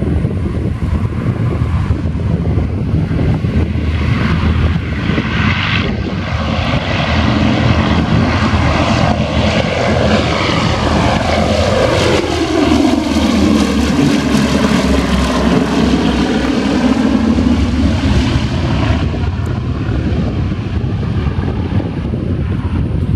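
Boeing B-17 Flying Fortress's four radial engines at takeoff power as it passes. The engine note builds, then drops in pitch about halfway through as the plane goes by, and fades near the end. Wind rumbles on the microphone throughout.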